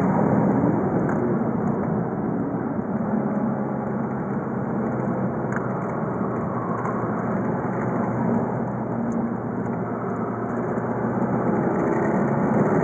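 Volkswagen Golf V 2.0 TDI four-cylinder turbodiesel (BKD) running while driving. The engine note shifts in pitch and is louder at the start and again near the end. Faint clicking rattle from a vibrating microphone mount.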